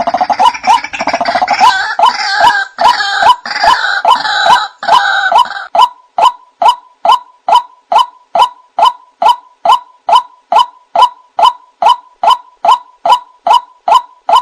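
White-breasted waterhen calling: a steady run of short, clipped notes about twice a second, with harsh gurgling croaks layered over them for roughly the first six seconds.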